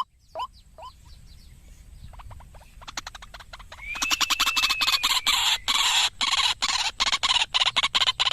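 Recorded calls of a white-breasted waterhen (ruak-ruak) played as a bird lure. A last couple of short calls die away, then a rapid chattering run of clicking pulses builds up and grows loud about four seconds in.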